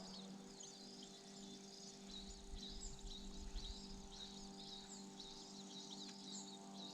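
Faint, rapid high-pitched bird chirps, many short sweeps one after another, over a steady low hum.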